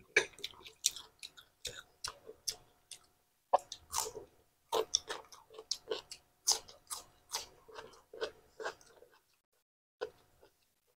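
A person biting and chewing raw cucumber sticks: crisp crunching and wet mouth sounds in quick, irregular bites that thin out about nine seconds in.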